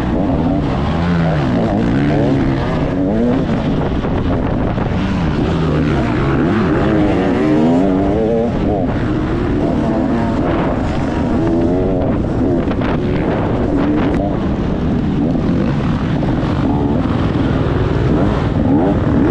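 Motocross bike engine revving up and down continuously as it is ridden, its pitch rising and falling with each burst of throttle and gear change.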